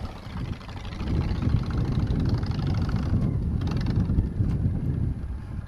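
Motorcycle engine running, getting louder about a second in as the bike moves off.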